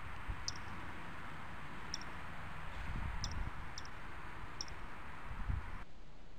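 A bird's short, high chip notes repeating about once a second over a steady outdoor hiss, with a few low rustles or thumps. The hiss and chips stop suddenly near the end.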